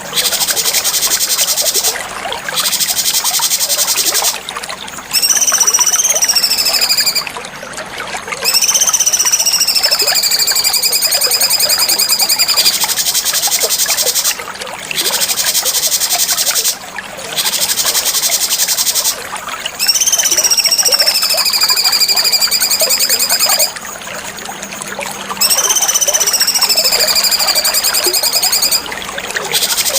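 Cucak cungkok song: long clear whistles that slide slowly downward, alternating with stretches of rapid, high-pitched chattering trills, phrase after phrase with short pauses between.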